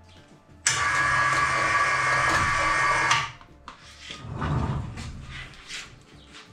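A loud rushing noise with a few steady high tones starts suddenly, runs for about two and a half seconds and stops, followed by a few softer knocks and clunks of workshop handling.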